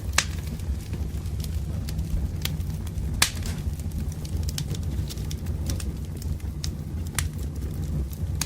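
Wood fire burning, a steady low rumble with irregular sharp crackles and pops of the logs, two of them louder, near the start and about three seconds in.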